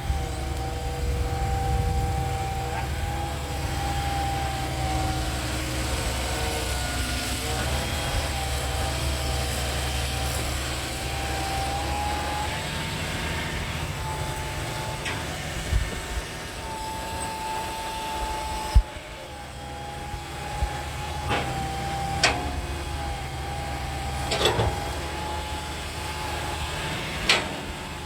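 Excavator's diesel engine running steadily, with a wavering whine over it and a few sharp knocks in the second half.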